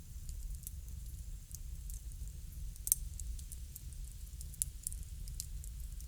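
Wood fire crackling: scattered sharp pops and snaps over a steady low rumble, with one louder pop about three seconds in.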